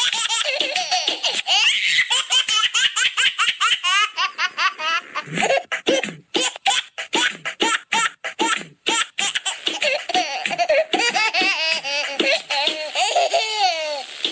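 A baby laughing hard in quick repeated bursts, with music underneath.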